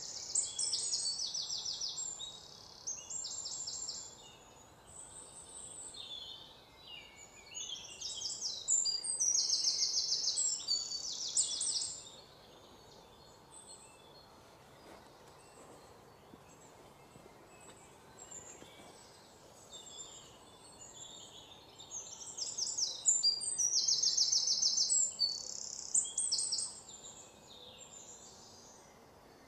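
Songbirds chirping in bursts of rapid, high trilled notes. There are several phrases, each a couple of seconds long, with quieter stretches of faint chirps between them over a low steady hiss.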